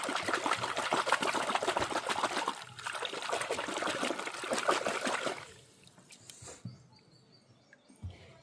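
Water running, letting up briefly near three seconds and stopping about five and a half seconds in.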